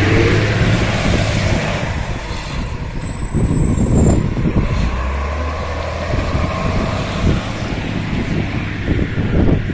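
Garbage truck engine running close by, its low hum easing after about two seconds, with a brief high squeal about three seconds in.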